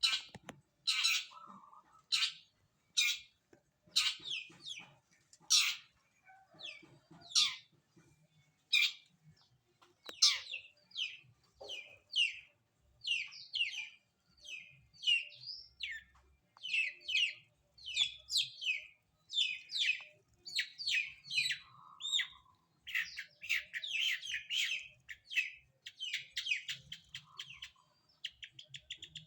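Long-tailed shrike calling over and over in short high notes, about one a second at first, then in a faster, denser run of notes from about a third of the way in.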